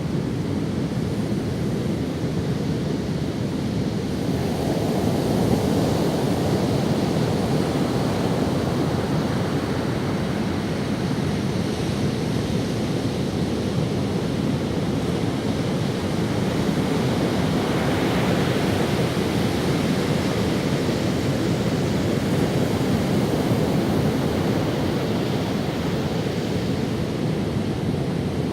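Ocean waves breaking and washing over sand in steady surf, swelling louder about four seconds in and again around eighteen seconds.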